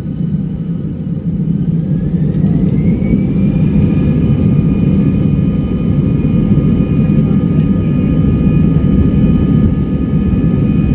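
Airbus A319's CFM56 jet engines spooling up to takeoff thrust, heard from inside the cabin: a whine rises about two seconds in and settles into a steady high tone over a heavy, constant rumble.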